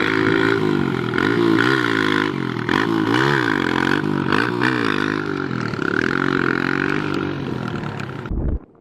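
Dirt bike engine revving, its pitch rising and falling several times as the throttle is worked. The sound cuts off suddenly near the end.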